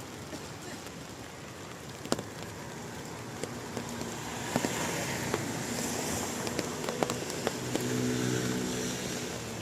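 Steady rain hiss with a few sharp taps. A car passes on the wet road, swelling from about four seconds in, its engine hum plainest near the end before it fades.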